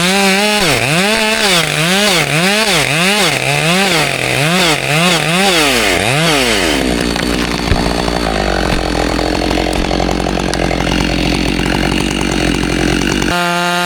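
Gas chainsaw cutting into a large pine trunk. For about the first half the engine pitch swings up and down about twice a second. It then runs steadier and lower under load, and settles into an even, steady tone near the end.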